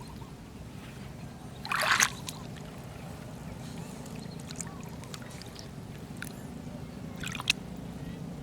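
Shallow flowing water running steadily, with a loud splash about two seconds in and a shorter one near the end.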